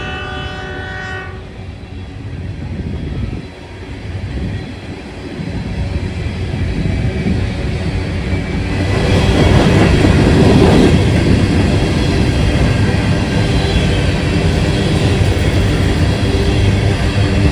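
Train horn sounding a chord that cuts off about a second in. The locomotive's rumble and the noise of the passing train then build, growing louder toward the middle and staying loud.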